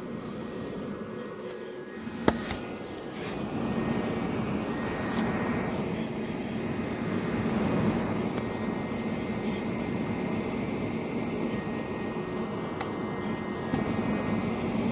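Small portable electric space heater's fan running, a steady rush of air with a low hum, and one sharp click about two seconds in.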